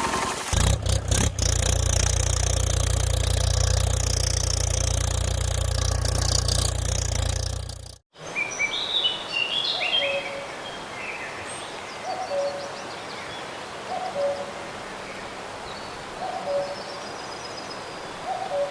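A steady low rumble for about eight seconds, which cuts off suddenly. Then birds: one repeats a short two-note hoot about every two seconds, and small birds give brief chirps.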